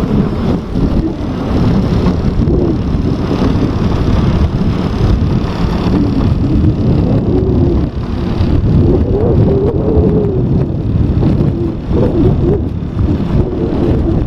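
A large engine running, its pitch wandering up and down as it is worked, under heavy wind rumble on the microphone.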